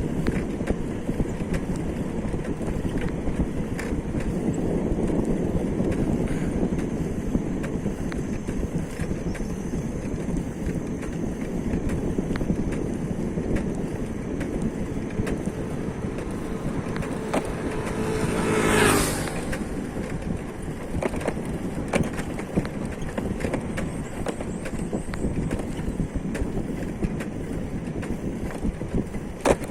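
Steady road noise of a vehicle travelling, a rough rolling rumble. Another vehicle passes close about 19 seconds in, its engine swelling and fading with a brief rush.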